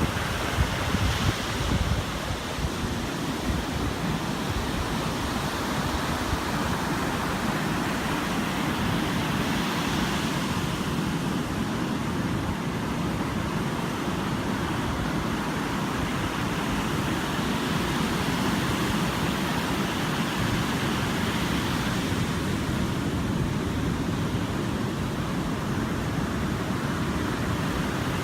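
Sea surf washing in, a steady rush of water that swells every several seconds. Wind buffets the microphone near the start.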